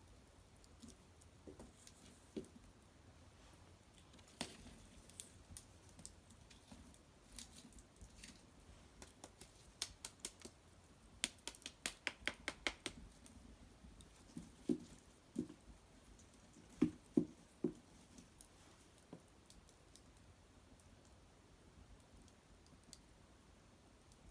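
A small wood fire crackling, with scattered sharp pops and a quick run of snaps partway through, and a few duller knocks a little later.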